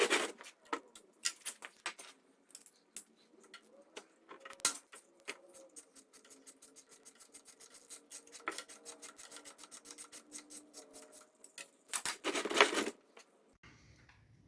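Metal hand-tool work: scattered clinks and clicks, then a run of quick, even clicks lasting several seconds, and a louder clattering scrape about twelve seconds in.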